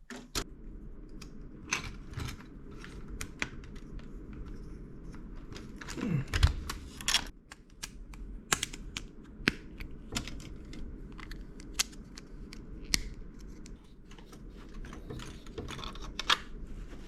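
Small plastic building-brick pieces clicking and rattling as they are handled and pressed together. The clicks come irregularly over a steady low hum, with a louder knock about six seconds in.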